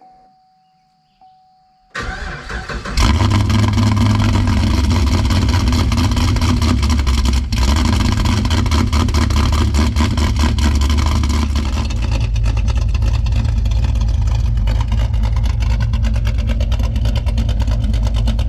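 2014 Chevrolet Caprice PPV's LS-family V8 with a Comp Cams LSR camshaft being cold-started. It cranks about two seconds in and fires a second later into a loud, high cold-start idle. About twelve seconds in it drops to a lower, lumpy, pulsing idle, the lope of the big aftermarket cam.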